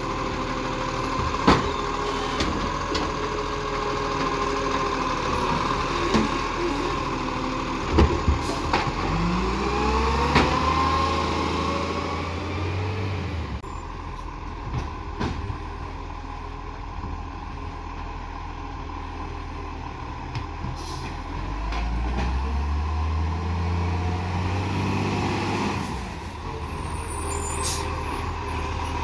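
Garbage truck's diesel engine running and revving up twice, its pitch rising each time, with sharp clunks and short air-brake hisses.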